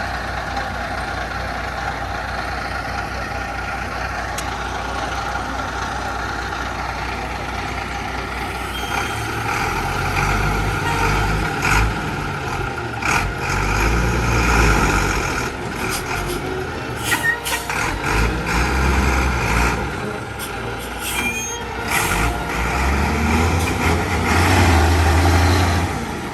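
Truck engine idling, then revving in repeated surges from about nine seconds in, with several short hisses.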